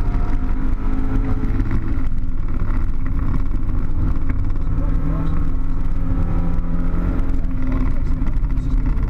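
Car engine and tyre rumble heard from inside the cabin at track speed, the engine note climbing and then dropping back, about two seconds in and again near the end.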